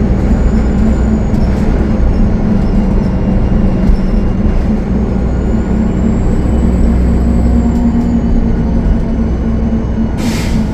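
Cummins ISL9 diesel engine of a Gillig Low Floor transit bus running under way, with a thin high turbo whistle that rises and then falls in the middle; the title puts the turbo noise down to a turbo leak. A short hiss of air comes near the end.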